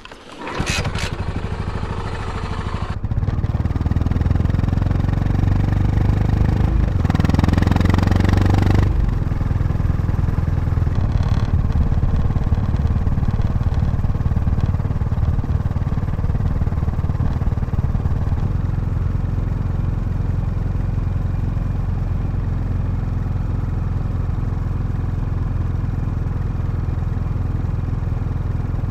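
Yamaha SR400's air-cooled single-cylinder engine starting and running. It is revved higher for a couple of seconds about seven seconds in, then settles to a steady idle.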